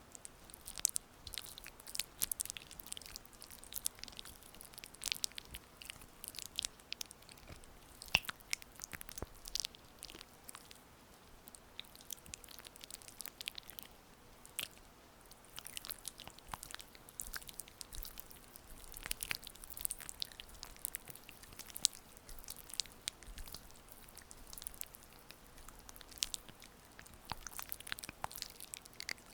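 Oiled hands rubbing and massaging close to the microphone, making a soft, irregular stream of sticky, wet clicks and squelches.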